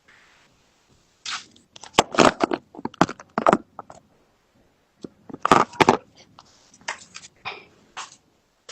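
Irregular crunching and cracking noises in short bursts. The densest clusters come about two seconds in and again about five and a half seconds in, with a few smaller ones near the end.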